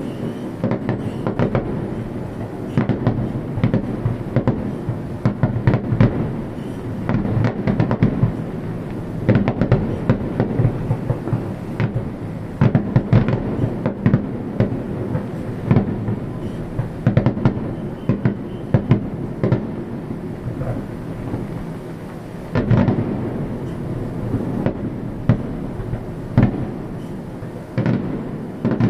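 Fireworks display: aerial shells bursting in rapid, irregular succession, sharp bangs over a continuous low rumble of booms.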